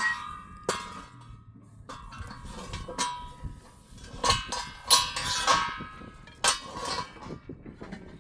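Irregular metallic clanks and clinks, a dozen or so sharp strikes with brief ringing after several of them, the loudest a little past the middle.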